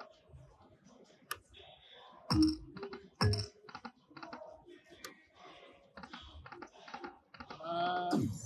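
Lightning Link slot machine clicking and ticking irregularly as its reels spin and land, with two louder knocks early on and a short pitched chime near the end.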